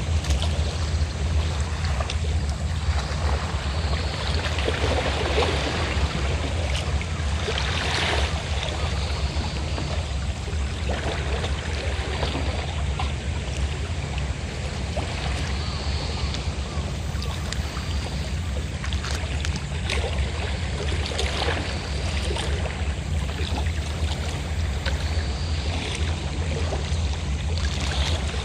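Sea waves washing and splashing on the shore over the steady low drone of a fishing boat's engine.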